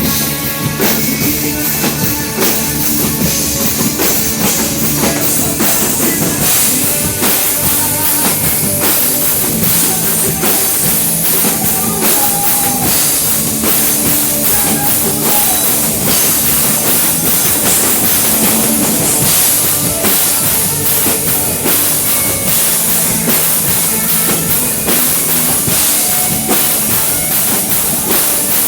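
A live rock-style band playing an instrumental passage of a worship song, with a busy drum kit of kick drum, snare and cymbals under guitar and bass.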